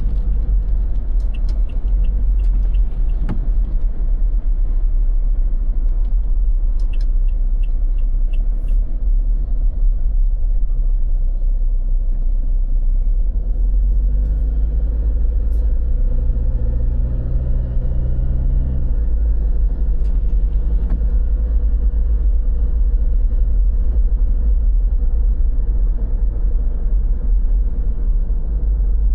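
Road traffic with a steady, heavy low rumble; a vehicle's engine hum swells around the middle and fades a few seconds later.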